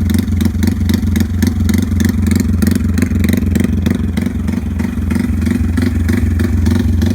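Honda MSX125 motorcycle's single-cylinder engine running steadily under way, at an even, unbroken pace.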